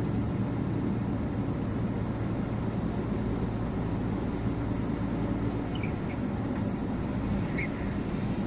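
Truck's engine droning steadily under way, heard from inside the cab, with road noise and a couple of faint short squeaks in the cab toward the end.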